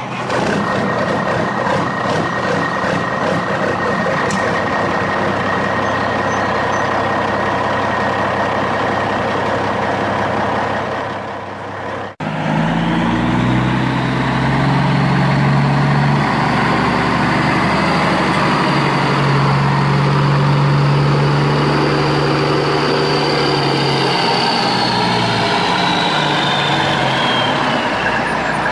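Truck engine sound running steadily, cut off abruptly about twelve seconds in and followed by another steady engine sound with a high whine that falls in pitch near the end.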